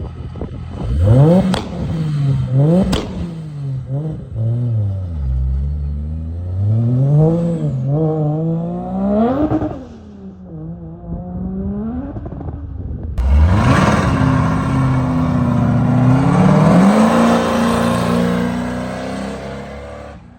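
Car engine revving hard several times, its pitch sweeping up and falling back, with two sharp cracks in the first few seconds. About thirteen seconds in, it cuts to a car accelerating, the engine note rising under a loud rushing noise.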